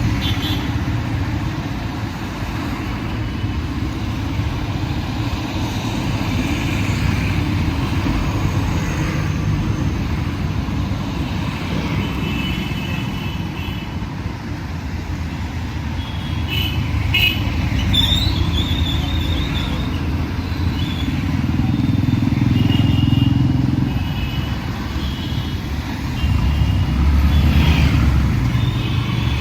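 Busy city road traffic: motorcycle, car and truck engines running and passing steadily, with short horn toots now and then.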